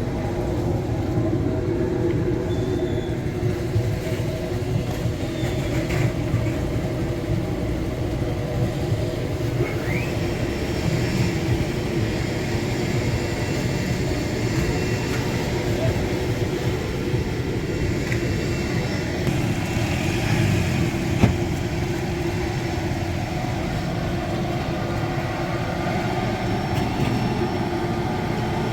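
Steady low mechanical rumble from a running machine, with a few faint clicks and a brief squeak.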